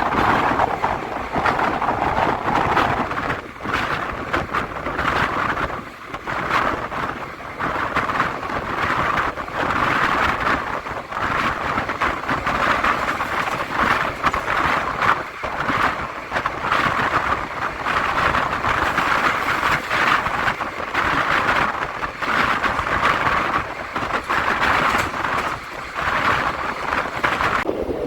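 Express passenger train running at speed: a steady rush of wheel-on-rail and wind noise with frequent irregular knocks and clicks from the wheels and coaches.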